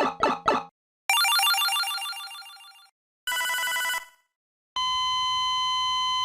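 A run of Dragon Ball anime sound effects. Three quick strikes open it, followed by a bright ringing chime that fades over about two seconds. Then comes a short beep and, near the end, a longer steady electronic tone.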